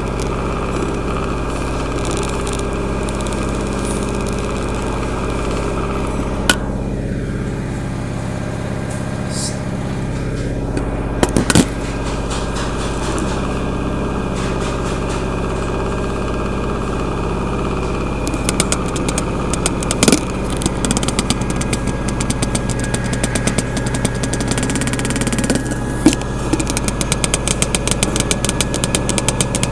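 LG washing machine in its final spin: a steady motor and drum hum, with a few sharp knocks. In the second half a fast rattling tick joins in, densest near the end.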